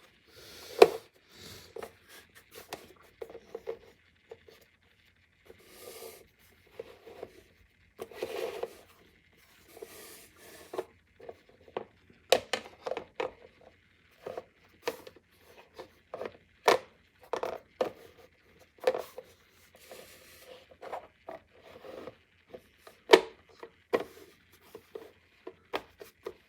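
Plastic lid being worked onto a microwavable bowl: irregular sharp clicks and knocks mixed with short scraping and rubbing of plastic on plastic as its clips are pushed over the rim.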